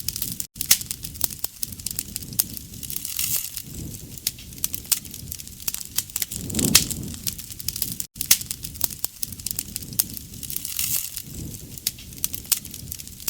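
Wood bonfire crackling, with frequent sharp pops and snaps and a low rush of flame swelling every few seconds. The sound cuts out for an instant twice.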